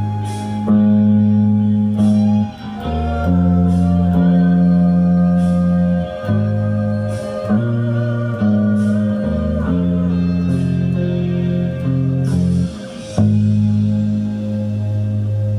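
Guitar music: plucked chords with deep bass notes, changing every second or two, ending on a long held chord that slowly fades.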